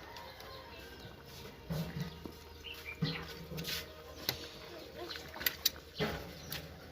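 Bird calls, a few short low calls spread across several seconds, with several sharp clicks in the second half.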